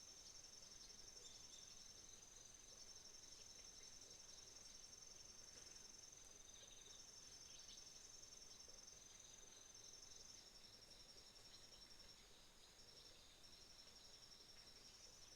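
Faint chorus of autumn insects such as crickets, trilling at a high pitch: one steady continuous trill, with a second pulsing trill just below it that breaks off and starts again every few seconds, over a soft outdoor hiss.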